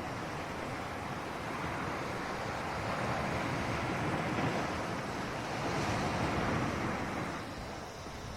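Ocean waves washing onto a shore: a steady surf wash that builds about two seconds in, peaks for a few seconds and fades away near the end.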